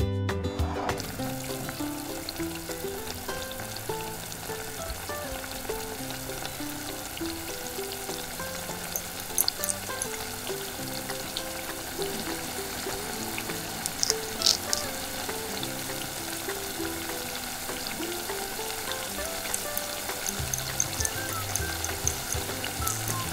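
Food frying and sizzling steadily in a miniature pan, with a few light clicks of a utensil against it.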